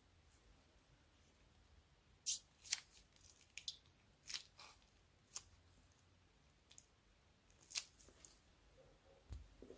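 Slime being pressed and stretched by hand, giving a scattering of short, sharp, sticky pops and crackles, about seven of them spread over several seconds.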